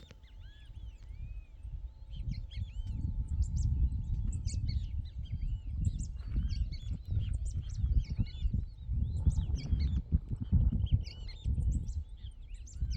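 Birds chirping, many short arching calls overlapping throughout, over a strong, uneven low rumble.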